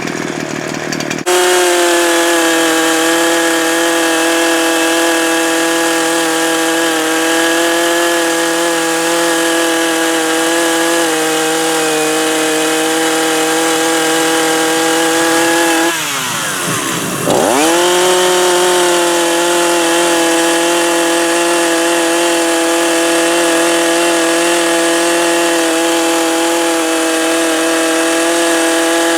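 Chainsaw opened up to full throttle about a second in and running steadily, cutting into a piece of oak; around the middle the revs drop briefly and then climb back to full speed.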